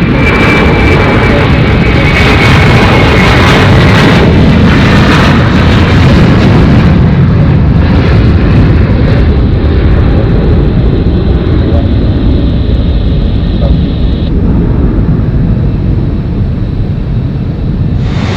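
Jet airliner engines at close range: a loud, steady roar with a high whine that falls slowly in pitch over the first few seconds. The hiss at the top of the roar dies away after about seven seconds while the low rumble carries on.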